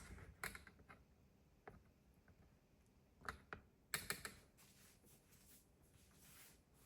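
Near silence with faint, scattered clicks and taps, a few in quick clusters about half a second, three seconds and four seconds in.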